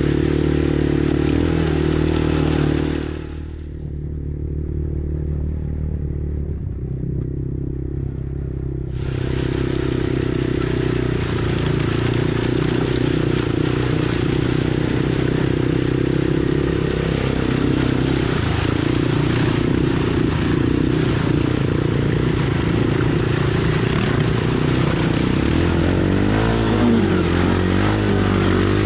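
Kymco Maxxer 300 quad's engine running steadily under way, with clattering and scraping over rough ground. For several seconds a few seconds in, the sound turns duller and quieter. Near the end the engine revs up and down.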